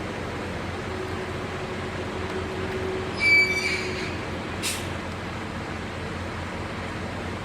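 Steady low vehicle rumble, with a loud high squeal about three seconds in and a short hiss about a second after it.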